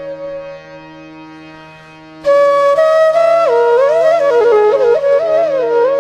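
Background flute music over a steady drone: a held flute note fades away, then about two seconds in a loud new phrase starts with quick ornamented runs.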